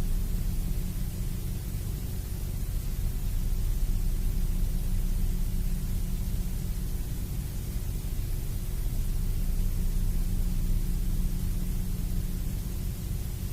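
Steady low electrical-style hum with an even static hiss over it, unchanging throughout.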